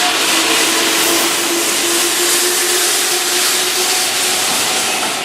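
Keihan Electric Railway commuter train running past: a steady rush of wheel and rail noise with a faint motor tone that rises slightly in pitch over the first few seconds.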